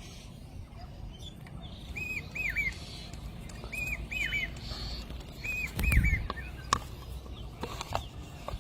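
A bird calling: short arched chirps in quick groups of three, repeated three times about a second and a half apart. A dull thump and rumble about six seconds in, then a few sharp clicks.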